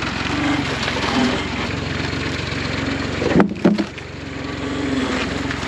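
Farm machinery with the tractor running steadily, a low, even hum under a broad mechanical noise. Two sharp knocks come about three and a half seconds in.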